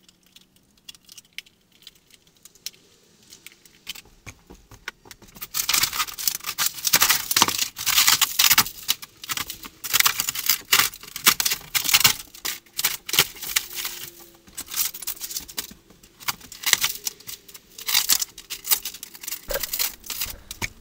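Rotten, water-damaged camper ceiling paneling and insulation being pulled down by hand. A few light clicks, then from about five seconds in a long stretch of irregular crackling, tearing and rattling as the crumbling material breaks away.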